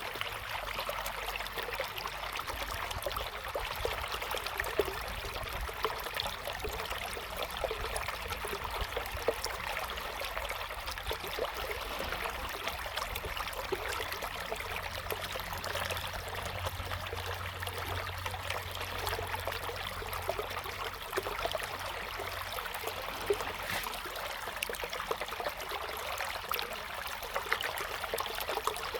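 River water flowing steadily over stones, an even rushing with small trickling splashes throughout.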